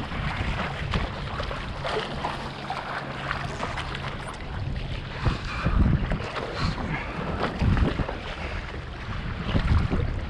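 Strong wind buffeting the microphone in repeated low rumbling gusts, over the rushing and splashing of a choppy sea.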